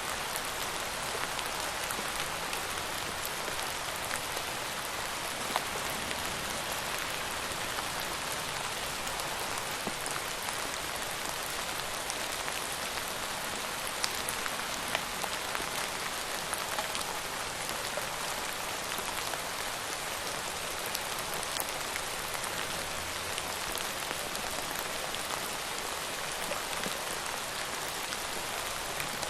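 Steady rainfall, a dense even hiss of rain with scattered individual drops ticking on a surface.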